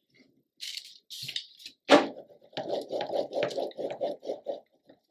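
Paper being handled at a craft table: a brief hissy rustle, a sharp tap about two seconds in, then a run of quick repeated strokes, several a second.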